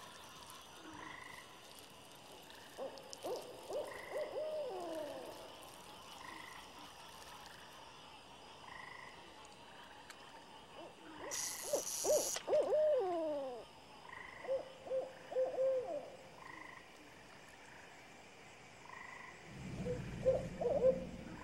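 Night swamp ambience: an owl hooting in wavering, gliding calls, with frogs calling at an even beat of about one call a second. A brief hiss comes a little after the middle, and a low rumble rises near the end.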